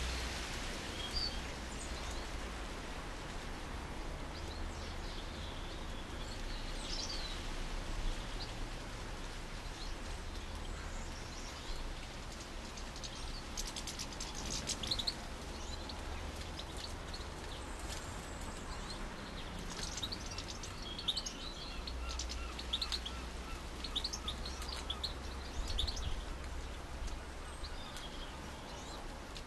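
Small garden songbirds chirping and twittering in short, scattered high calls, busiest in the middle and later part, over a steady low rumble of background noise.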